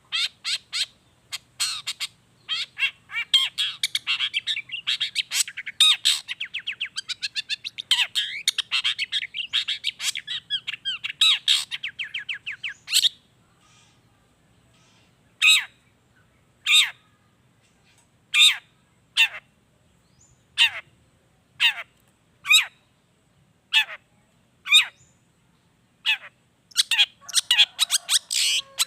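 Long-tailed shrike (cendet) singing vigorously: a fast chattering run of sharp notes for about thirteen seconds, then a pause and a string of single harsh, downward calls about once a second, and a fast chattering run again near the end.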